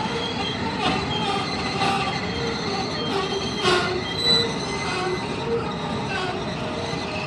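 Freight train wagons rolling past close by: a steady rumble of steel wheels on the rails. Brief high squeals and several sharp metallic knocks sound as the wagons go over.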